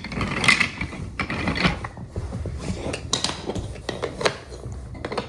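Wooden toy train track pieces clicking and clattering as they are handled and fitted together, in a run of irregular sharp knocks.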